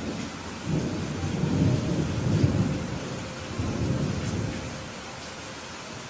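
Steady rain with a roll of thunder: the rumble swells up about a second in, peaks twice and dies away after about five seconds.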